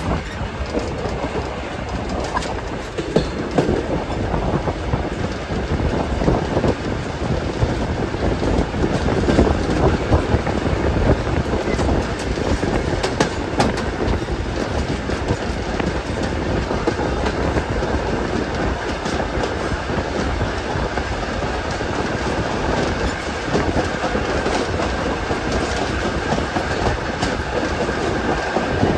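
Train rolling along the track, its wheels clicking steadily over rail joints with a continuous rumble.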